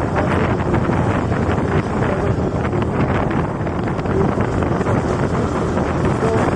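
Steady wind buffeting the microphone on a moving bike ride, with road and vehicle noise underneath.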